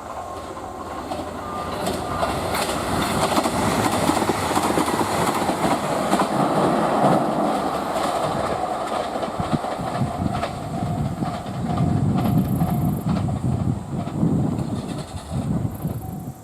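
A train passing on the rails, its wheels clattering over the rail joints. It grows louder over the first few seconds, then stays loud.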